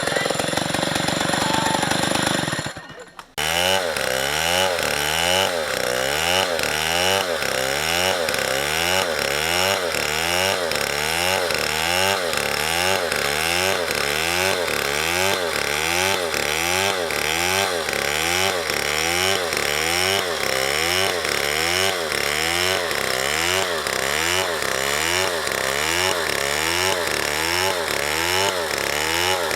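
Chainsaw running with its engine pitch rising and falling in an even, repeating rhythm, about one and a half times a second. It follows a brief break about three seconds in.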